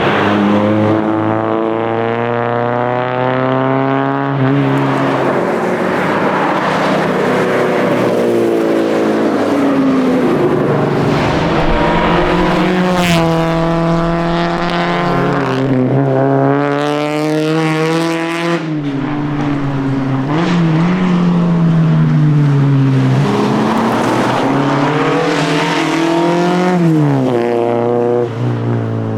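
Alfa Romeo Giulia's engine driven hard, its revs climbing again and again and dropping back sharply between climbs, as on gear changes and braking for corners.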